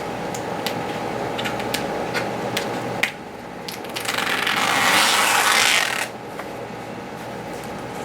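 Light clicks and handling of stencil materials, then about two seconds of loud tearing hiss of adhesive film being peeled, which stops abruptly.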